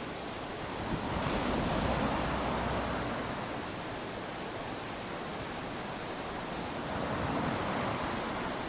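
Small waves washing onto a sandy beach: a steady rush of surf that swells twice, once about a second in and again near the end, then eases back.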